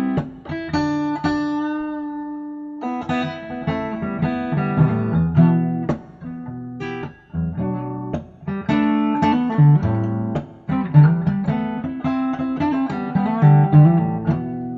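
Acoustic guitar picked as a song accompaniment. A chord rings out and fades about a second in, then the picking picks up again about three seconds in.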